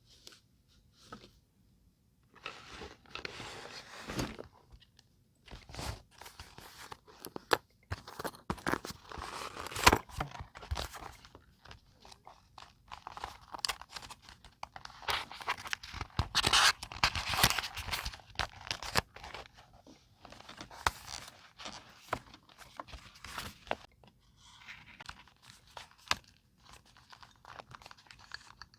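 Paper being handled for scrapbooking: irregular rustling and crinkling of paper with scattered sharp taps and clicks.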